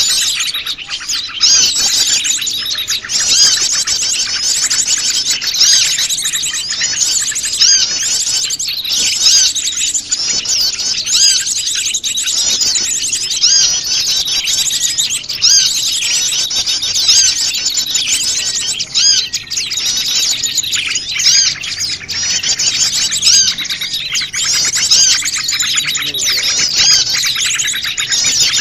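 A dense, noisy chorus of many small wild birds chirping and twittering at once, high-pitched and without pause: a mixed small-bird lure recording made to draw small birds in.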